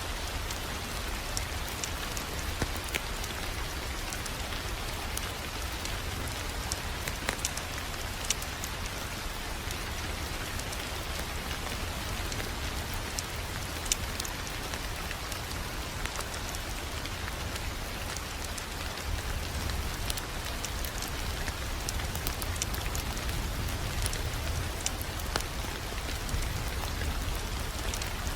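Wood fire crackling: a steady hiss with scattered sharp pops and a low rumble underneath.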